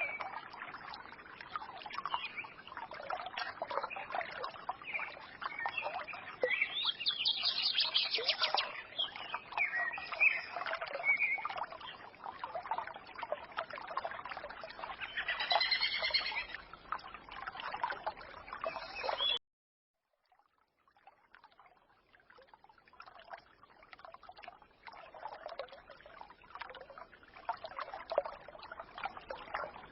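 A small forest stream trickling while songbirds chirp and twitter over it. About 19 seconds in, the sound cuts out suddenly for about a second, then the trickling fades back in with few or no bird calls.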